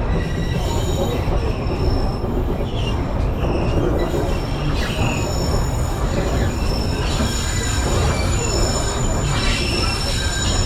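Narrow-gauge sightseeing train running, heard from aboard: a steady rumble of wheels on the rails, with a thin, high wheel squeal that comes and goes and is strongest in the second half.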